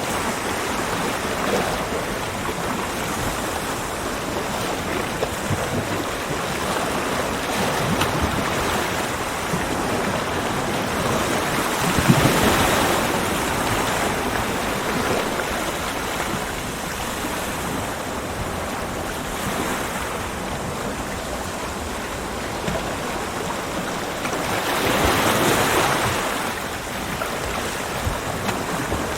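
Ocean waves breaking and washing on a beach, a continuous rush of surf with two louder breakers, one about twelve seconds in and one about twenty-five seconds in.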